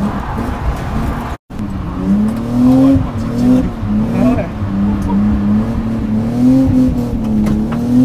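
BMW E36 325i's straight-six engine pulling hard while the car is drifted, heard from inside the cabin; its pitch rises and dips about once a second and climbs near the end.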